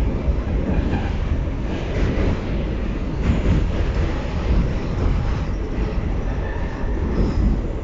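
New York City Subway D train running at speed: a steady, loud rumble of wheels on rails, heard from inside the car.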